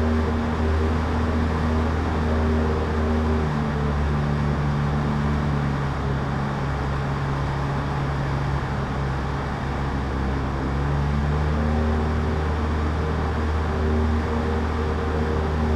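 Cessna 152's four-cylinder engine and propeller droning steadily in flight, heard from inside the cockpit, with a slight change in the tone of the drone for several seconds in the middle.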